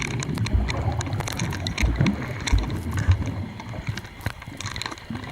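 Water sloshing and gurgling, with dull low thumps and many scattered clicks.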